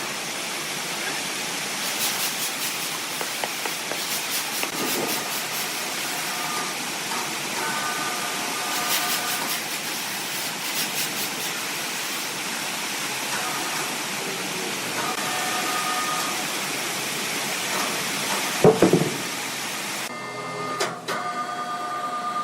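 Sawmill saw cutting through timber, a steady hissing noise with scattered clicks. There is a loud knock about 19 seconds in, and the cutting noise stops a second later, leaving quieter clatter.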